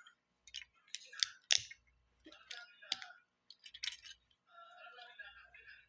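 Small plastic Lego pieces clicking and clattering as they are handled and fitted together: a string of sharp, irregular clicks, with a softer rustle near the end.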